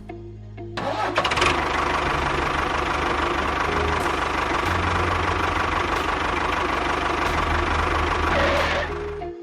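An engine-like motor starts about a second in and runs steadily with a fast, even beat, then cuts off suddenly near the end.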